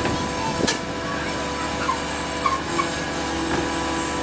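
Heavy scrap-processing machinery running with a steady hissing drone, with a few sharp knocks of metal scattered through it.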